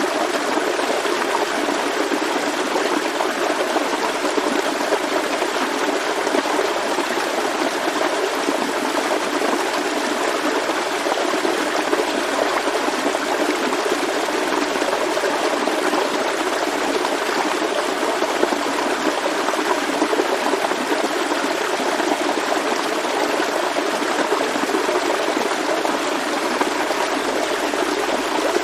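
A forest stream flowing and splashing steadily over stones, a continuous even rush of water.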